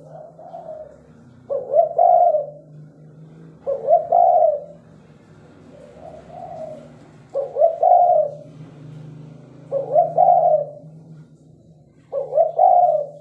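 Spotted doves cooing: loud coo phrases repeat about every two to three seconds, with fainter coos between them, over a steady low hum.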